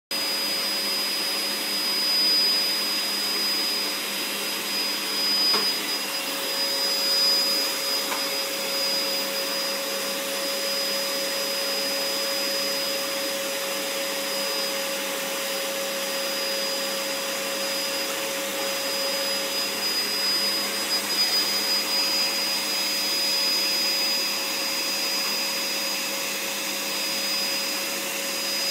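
Vacuum cleaner running steadily, a motor whine over airflow noise, the level swelling a little now and then.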